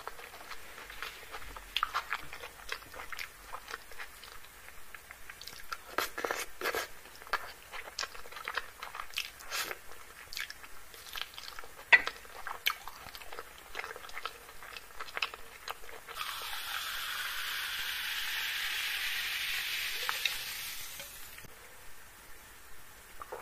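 Close-miked wet chewing, lip-smacking and sharp mouth clicks of someone eating chicken curry by hand. About two-thirds through, a steady hiss lasts some five seconds: water being poured into a drinking glass.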